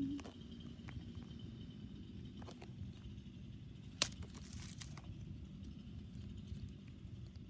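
Faint handling knocks of a toy monster truck against rocks: a few sharp clicks, one louder about four seconds in, over a low steady background hum.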